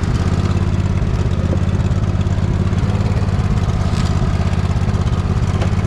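Poulan riding lawn mower engine running at a steady speed.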